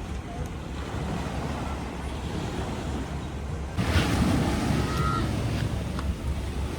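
Sea surf washing in with wind rumbling on the microphone; the rush turns suddenly louder and brighter about four seconds in.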